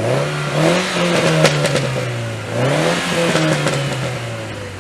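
A car engine accelerating hard. Its pitch climbs and holds, drops at a gear shift a little over two seconds in, then climbs again and slowly falls away. A few sharp cracks come about a second and a half in.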